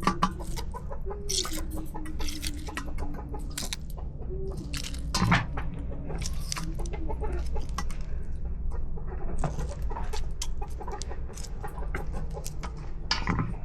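Hen clucking, with a few drawn-out calls in the first half, among scattered clicks and knocks.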